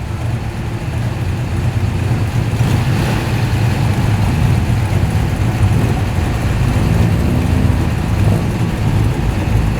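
Ford XW Falcon GT's V8 engine rumbling low and steady as the car rolls in at low speed, growing louder over the first few seconds.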